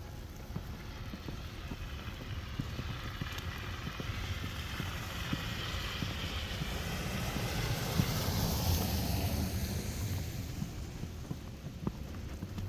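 A vehicle passing on a snowy street: its rushing noise swells to a peak about two-thirds of the way through and then fades. Footsteps crunching in snow run underneath, with some wind on the microphone.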